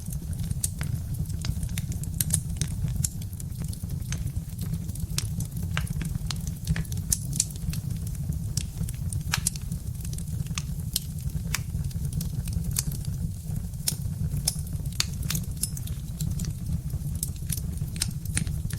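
Birch-log fire crackling: irregular sharp pops and snaps, several a second, over a steady low rumble of the burning fire.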